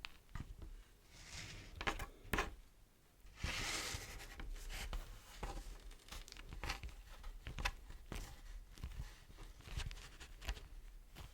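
Beeswax wrap handled close to the microphone: crinkling and sticky peeling, with scattered light taps and clicks. The longest, loudest crinkle comes about three and a half seconds in.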